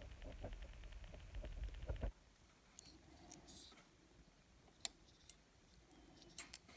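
Kapton tape pulled off its roll, a rasp with many fine rapid crackles for about two seconds that stops suddenly. A few small sharp clicks follow later.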